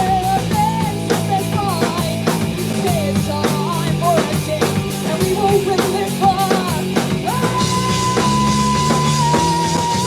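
Rock band playing live: steady drum kit hits over distorted electric guitar and bass chords, with a lead line that bends up and down in pitch, then one long held high note from about seven seconds in.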